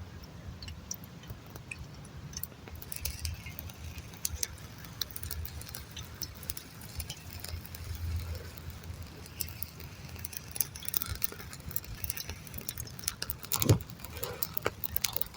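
Scattered small clicks and light handling sounds, with a single louder knock near the end.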